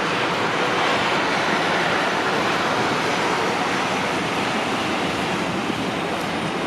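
A train running past close by, giving a steady loud rush of wheel and air noise that eases slightly towards the end.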